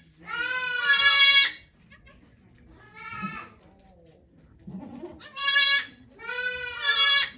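Goat bleating: four long, loud calls, the first the longest and the second fainter.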